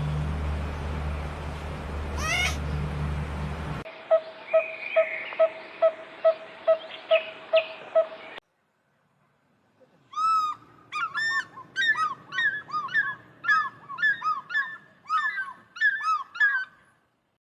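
A sequence of animal calls in three abrupt segments. First, one upward-sweeping call over a low hum. Then short, evenly pitched hoot-like notes about two a second, and after a short gap, a rapid string of arched chirping bird calls.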